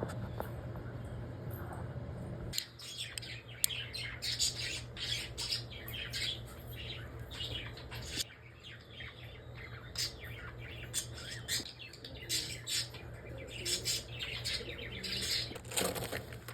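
Birds giving rapid, high-pitched chirps and squawks in quick succession from about two and a half seconds in, over a low steady hum.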